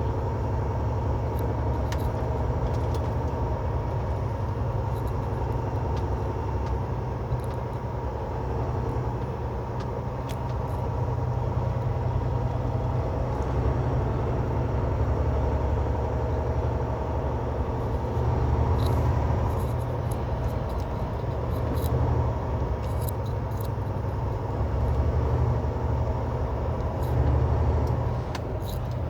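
Semi truck's diesel engine running steadily with a deep, constant rumble and road noise, heard from inside the cab, with a few faint ticks.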